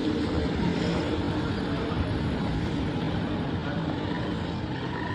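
Steady street noise of vehicle engines running.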